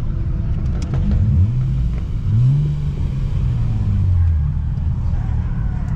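Nissan Altima's engine revving up briefly about a second in, then again a little after two seconds and slowly easing back down, over a steady low rumble.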